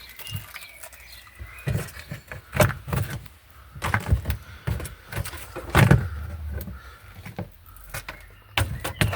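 Irregular knocks, taps and clatters from hands and tools working at a car's floor pan, with a few stronger thumps, the loudest about six seconds in.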